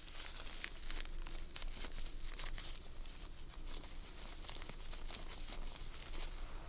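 Close-up crinkling and crackling with many quick, sharp clicks, dense and irregular throughout.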